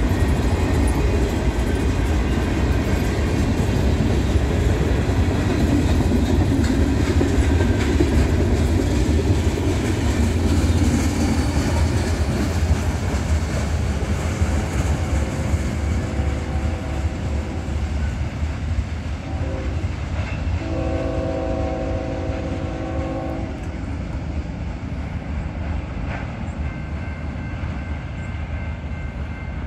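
Freight train cars rolling past with a steady rumble and wheel clatter on the rails, easing off as the last cars go by. About halfway through, a diesel locomotive horn sounds several blasts, the last about three seconds long.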